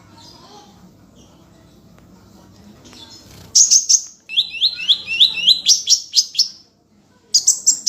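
Songbird singing. A few seconds of faint background give way to loud, high chirps, then a quick run of repeated down-slurred notes at about four a second, more sharp chirps, a brief pause, and another burst near the end.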